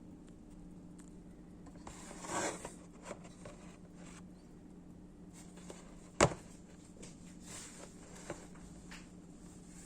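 Handling of a handmade plexiglass folding knife: a brief scrape about two seconds in, then one sharp click a little past six seconds, with a few faint ticks in between.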